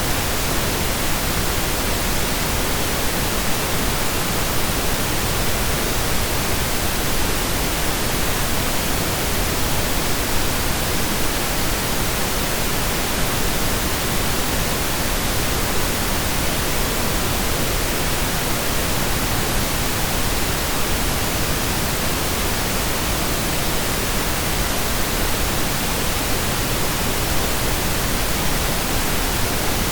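Steady synthesised pink noise: an even, unchanging hiss with equal energy per octave, like steady rain or a waterfall heard from indoors.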